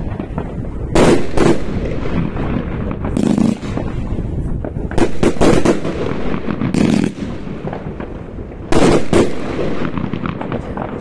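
New Year's Eve fireworks: a series of sharp, loud bangs from fireworks bursting, about a second in, again between five and seven seconds, and twice around nine seconds. Between them runs a continuous background of crackling and popping.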